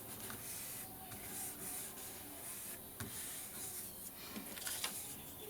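Paper being handled and rubbed, a soft scratchy rustle broken by a few light taps.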